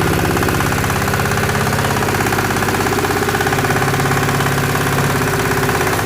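Engine of an SM-30 organic-waste shredder and grinder running steadily with a fast, even pulse.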